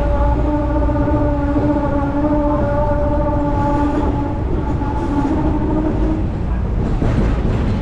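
Hong Kong double-decker tram running: a constant low rumble from the running gear, with a steady whine on top that fades about four seconds in and returns briefly around five to six seconds.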